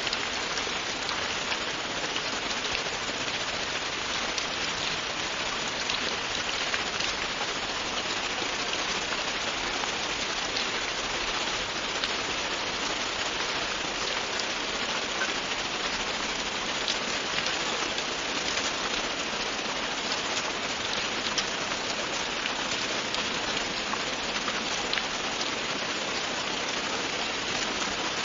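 Steady rain falling on a surface, an even hiss with the fine patter of individual drops, unbroken throughout.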